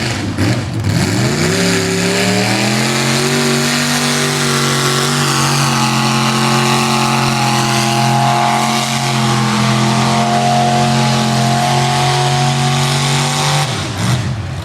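Tractor engine revving up and held at steady high revs for about ten seconds under load while pulling the sled, then dropping off near the end.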